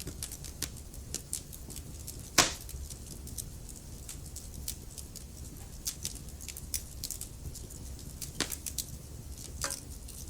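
Wood fire crackling in a fireplace: irregular sharp pops and snaps over a low steady rumble, with one loud pop about two and a half seconds in and two more strong pops near the end.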